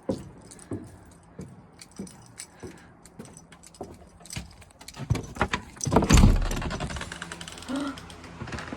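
Light knocks and rattling clicks, with a loud low thump about six seconds in.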